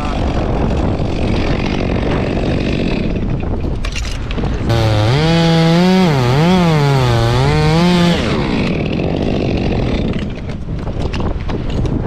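Two-stroke chainsaw running, its engine note rising and falling several times as the throttle is worked, loudest for a few seconds in the middle; either side is a steady rough noise of saw running and wind.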